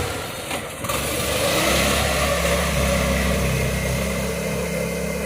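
Predator 212 single-cylinder four-stroke engine powering a small pickup truck, running steadily as the truck drives, with a brief dip in level about half a second in.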